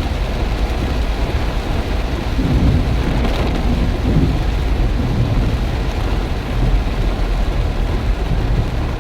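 Heavy rain pouring down in strong wind, a dense steady hiss over a constant deep rumble.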